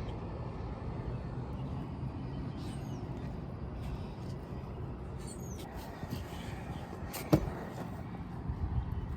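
Steady low outdoor rumble with a few faint high chirps, and a single sharp knock about seven seconds in.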